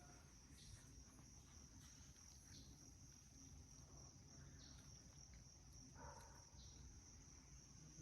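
Faint, steady high-pitched trilling of insects, with short high chirps every second or two and one brief call about six seconds in.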